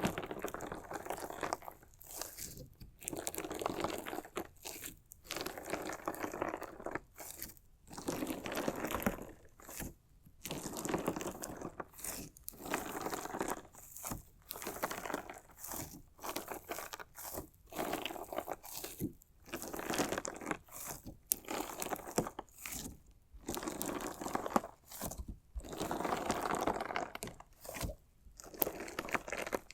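Crunchy slime mixed with small decorative stones being cut and pressed: repeated crunching, gritty squishes, one every second or two, with short pauses between them.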